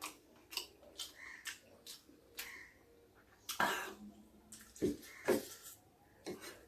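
Close-up mouth sounds of eating chicken momo: wet chewing and lip smacks, coming as an irregular series of short smacks, with a louder, longer one about three and a half seconds in.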